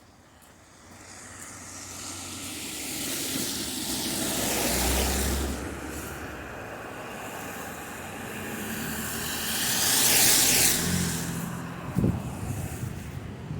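Two vehicles passing on the street, their tyres hissing. The first swells to a peak about five seconds in with a low engine rumble. The second is louder, peaking around ten seconds in.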